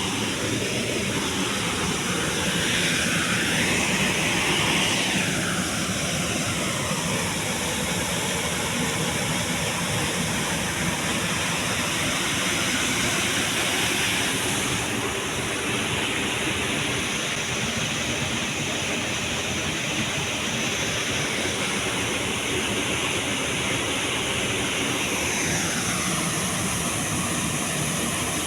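Nyakwana waterfall's water rushing over the rocks: a steady, unbroken roar.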